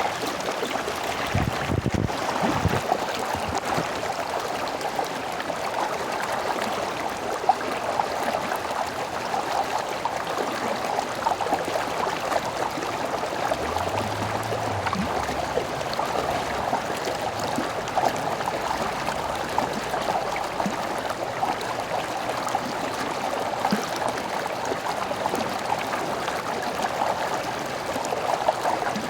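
A small stream running over rocks: a steady babbling rush of water, with a couple of faint low thumps about two seconds in.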